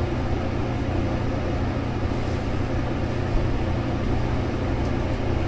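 Steady low mechanical hum with a light even hiss, unchanging throughout.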